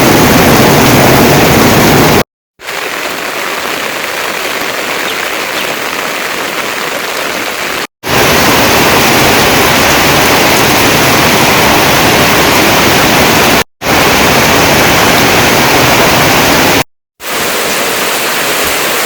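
Heavy rain pouring down, a steady loud hiss. It cuts out abruptly four times and comes back each time a little different in loudness and tone.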